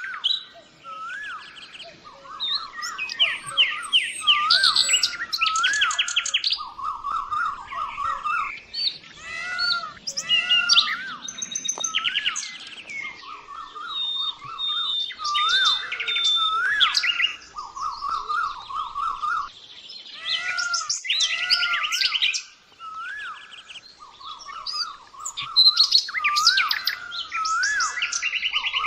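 Several birds singing and calling together: repeated swooping whistled notes, rapid trills and quick high chirps, recurring every few seconds.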